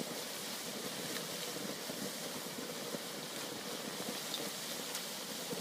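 Noodles deep-frying in a wok of hot oil: a steady sizzle with faint scattered crackles.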